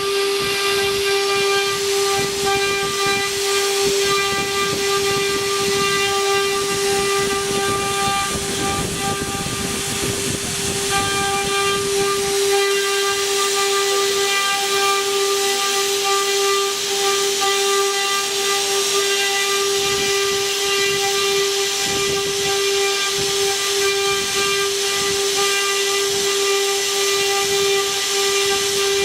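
Multi-spindle CNC wood router running: the spindles give a steady high whine over the hiss of the bits cutting wood. About eight seconds in, the rougher cutting noise swells for a few seconds.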